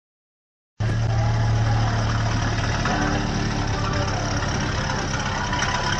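A car engine idling steadily with a strong low hum, cutting in abruptly just under a second in.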